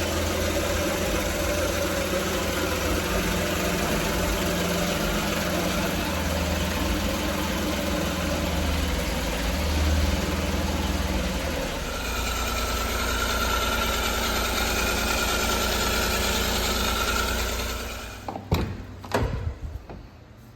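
A 1999 Daihatsu Hijet mini truck's small three-cylinder engine idling steadily, its tone changing about twelve seconds in with a thin whine added. The engine is switched off near the end, followed by a few sharp knocks.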